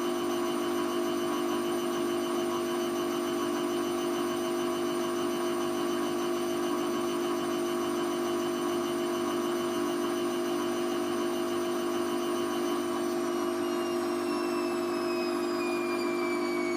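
Hoover Vision Tech VT 914 D22X washing machine spinning, with a steady motor whine over a rumble; about thirteen seconds in, the whine starts to fall in pitch as the drum slows down.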